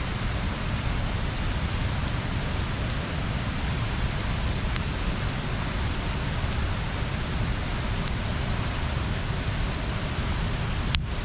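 Bonfire burning with a steady rushing hiss, broken by a few sharp crackling pops; the loudest pop comes near the end.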